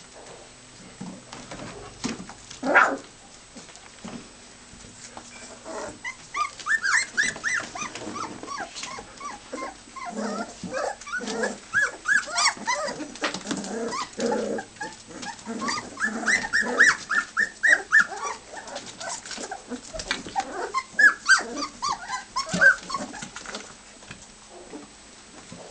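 Four-week-old golden retriever puppies whimpering and yipping: many short, high, squeaky cries overlapping one another, with one louder cry near the start.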